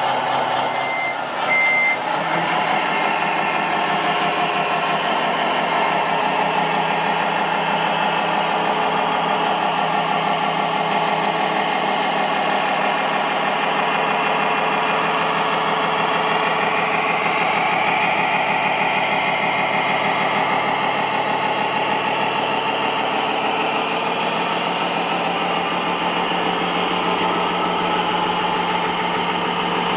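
Radio-controlled construction machine running with a steady engine-like drone, with two short high beeps about a second in.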